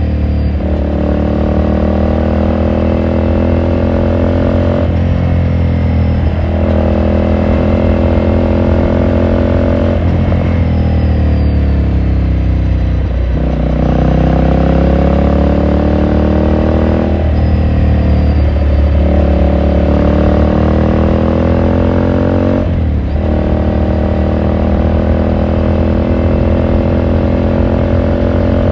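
2018 Ducati Scrambler Sixty2's air-cooled L-twin engine running under way. The pitch climbs in stretches and drops suddenly several times as it shifts gear, with one long falling note near the middle as it slows off the throttle before pulling again.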